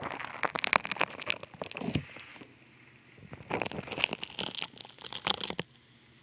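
Funny Foam squished and worked against a binaural dummy head's ear microphone: dense, close crackling and popping. It comes in two spells, with a lull of about a second between them.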